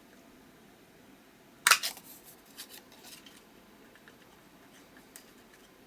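A corner concave paper punch snapping shut through a paper ticket once, about two seconds in, with a short crackle as it cuts, followed by a few faint clicks of paper being handled.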